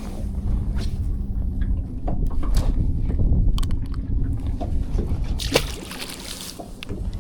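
Water sloshing against a small boat's hull over a low rumble, with scattered knocks and clicks. A louder, splashy hiss comes about five and a half seconds in and lasts about a second.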